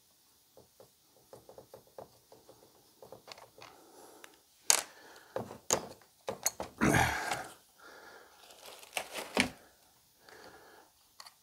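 Husqvarna 55 chainsaw's plastic covers and small parts being handled and pulled off during disassembly: scattered clicks and knocks, with a louder rustling scrape about seven seconds in.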